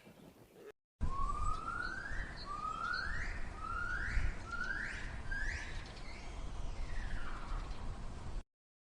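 An animal calling: a series of about six rising, whistle-like calls roughly a second apart, the last one falling, over a low background rumble. It stops abruptly near the end.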